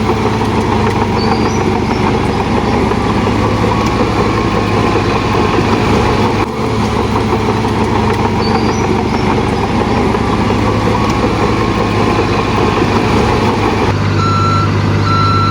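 Heavy earthmoving machinery's diesel engine running steadily and loud, working under load. Near the end the engine note smooths out and a reversing alarm beeps twice.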